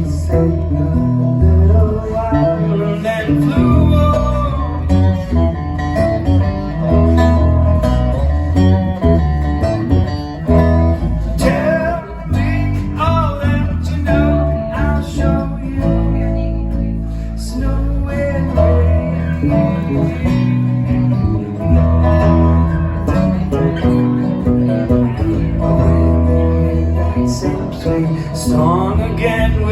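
Live band music with guitar and bass, a melodic line bending in pitch over the band.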